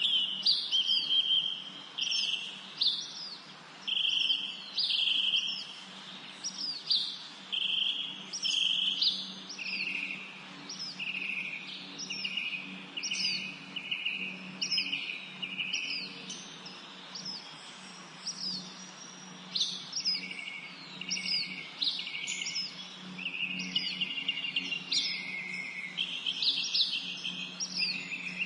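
Songbirds singing: one bird repeats a short phrase about once a second, a quick falling whistle followed by a held note, with other chirps around it. A faint low steady hum runs underneath.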